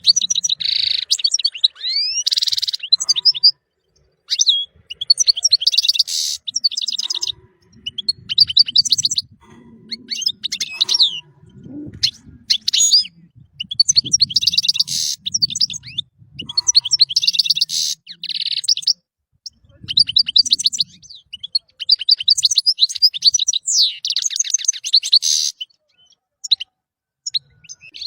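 European goldfinch singing: phrase after phrase of rapid, high twittering trills and buzzy notes, each phrase lasting a second or two with short pauses between them.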